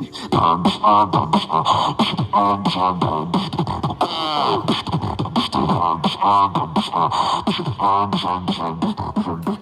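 Solo beatboxing: quick rhythmic vocal percussion of clicks and kick-like hits, with hummed pitched tones woven between them and a sliding pitch sweep about four seconds in.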